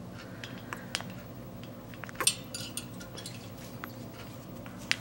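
A few sharp clicks and light metallic clinks, as an African grey parrot's beak and claws work against his cage, the loudest click a little past two seconds in, over a low steady hum.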